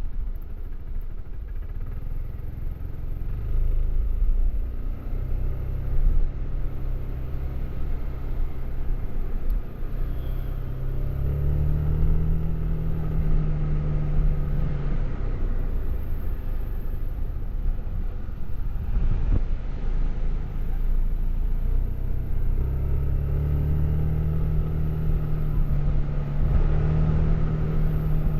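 Suzuki Burgman AN400 maxi-scooter's 400 cc single-cylinder engine with its stock exhaust, running on the move over wind and road rumble. Twice, about a third of the way in and again in the last quarter, the engine note climbs and then holds level as it accelerates.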